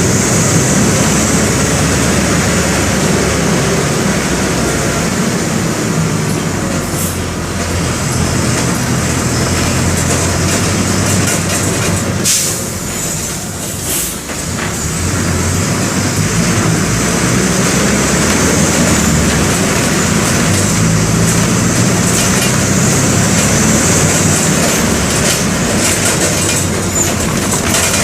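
Mercedes-Benz OF-1722M bus's OM-924 LA four-cylinder inline turbodiesel running with the bus under way. The engine note rises and falls in steps. About halfway through it briefly drops, with a couple of sharp clicks.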